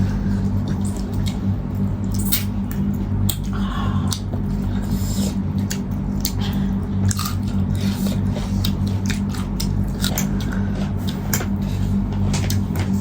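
People chewing and biting food, with many short wet clicks and crunches of eating, over a steady low hum.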